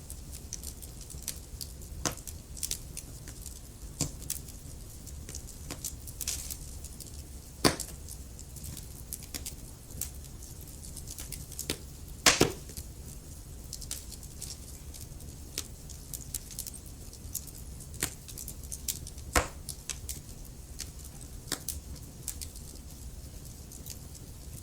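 Wood fire burning in a fireplace: a steady low rumble and hiss with frequent small crackles and a handful of louder sharp pops, the loudest about twelve seconds in.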